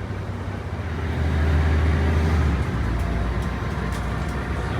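Diesel bus engine running under way, a low rumble that grows louder about a second in and eases back about halfway through, with a few faint ticks near the end. The engine is the bus's 12-litre turbocharged six-cylinder Mercedes-Benz OM 447 HLA diesel.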